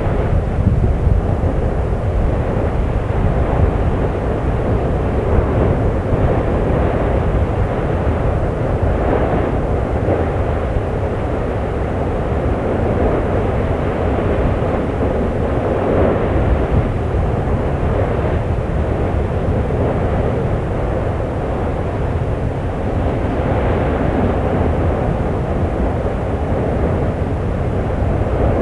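Steady deep rumble of an erupting Icelandic volcano, lava spattering and degassing at the vent. The rumble swells gently a few times and never breaks off.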